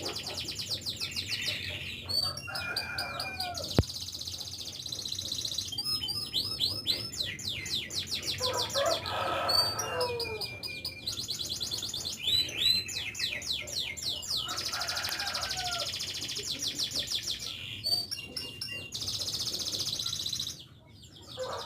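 Domestic canary singing a long song of fast, high-pitched trills and rolls, one phrase giving way to the next every few seconds, with a single sharp click about four seconds in.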